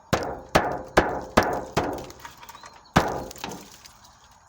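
A metal object striking a car's windshield hard and repeatedly: five blows about two a second, then a pause and one more blow about three seconds in. Each hit rings briefly.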